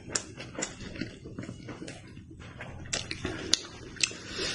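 Close-up chewing of meat: wet smacking and clicking mouth sounds, a few sharp lip smacks among them.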